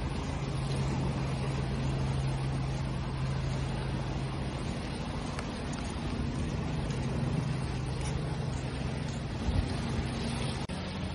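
Steady wash of sea waves with a low motor-like hum running underneath, which shifts slightly in pitch partway through; the sound drops out for an instant near the end.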